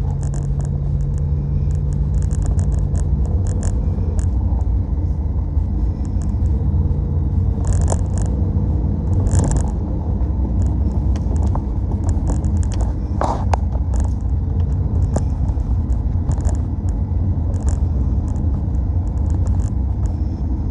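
Car with a V8 engine driving, a steady low engine drone and road rumble, with scattered short clicks and ticks throughout.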